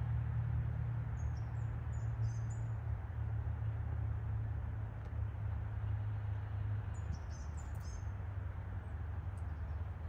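Small birds giving short, high chirps in two quick clusters, about a second in and again about seven seconds in, over a steady low rumble.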